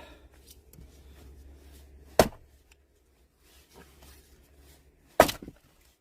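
Two sharp axe strikes into firewood logs, about three seconds apart, each blow splitting a log in one go.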